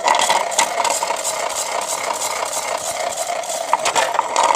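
Small electric motor of a battery-powered toy washing machine running, with bricks rattling and clattering inside its drum; it starts abruptly and keeps up a steady drone dotted with sharp knocks.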